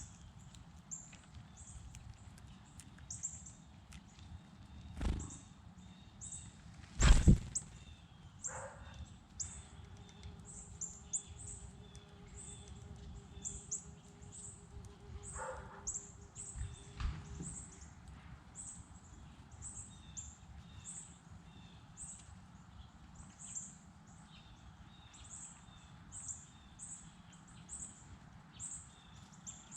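Small birds chirping, short high chirps repeating about twice a second, with a few sharp thumps close to the microphone, the loudest about seven seconds in.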